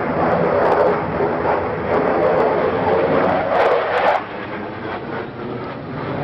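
Loud aircraft engine noise that drops off sharply about four seconds in, leaving a lower steady rumble.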